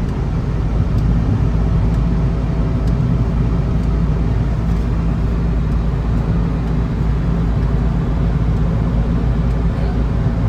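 Steady low rumble of a car's engine and tyres on the road, heard from inside the moving car's cabin, with a few faint light ticks.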